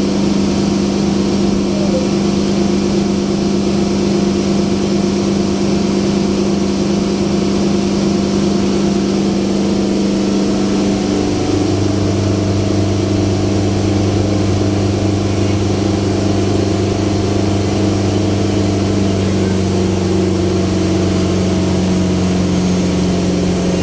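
Pasig River ferry boat's engine running steadily. About halfway through, the engine note changes and a deeper hum comes in.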